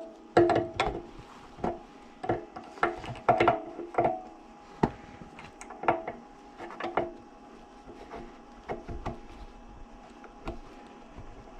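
Irregular clinks and knocks of hand tools and metal parts being handled, some ringing briefly; they come thick and fast in the first few seconds and thin out towards the end.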